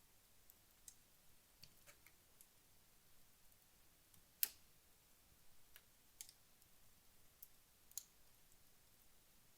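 Wood fire in a fireplace, burned down late in its burn, giving off sparse faint crackles and pops over a low hiss, with one sharper pop about halfway through.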